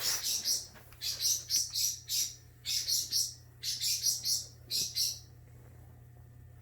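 Pet cockatoo calling: a quick run of short, high, scratchy calls in little groups of two to four, stopping about five seconds in.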